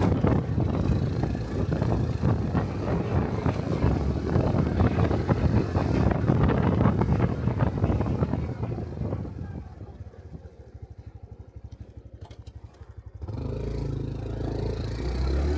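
Honda Cub 125 cc single-cylinder engine under way, with wind rushing on the microphone. About ten seconds in it drops to a quiet, even idle putter as the bike slows and stops. It picks up again near the end as the bike pulls away.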